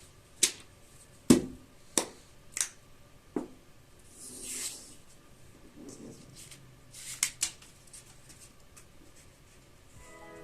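A sheet of paper being handled and folded by hand into a paper airplane: a run of crisp snaps and taps as folds are made and creased, a brief rustling swish about halfway through, then a few softer taps.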